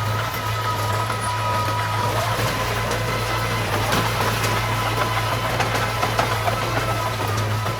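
Heavy earthmoving machine's engine running steadily, a constant low drone with a faint steady whine above it.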